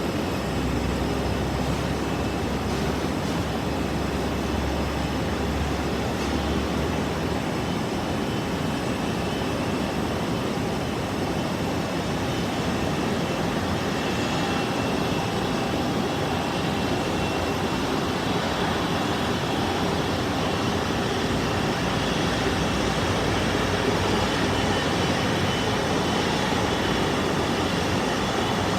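Airplane engines running with a steady rushing noise; a faint high whine comes in about halfway, and the sound grows slightly louder toward the end.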